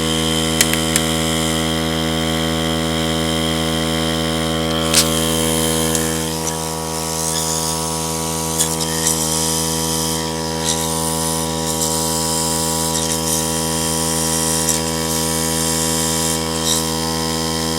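Steady machine hum made of many even tones, with hissing and a few sharp clicks: compressed air being blown through the oil passages of a BMW M62B44TU crankshaft.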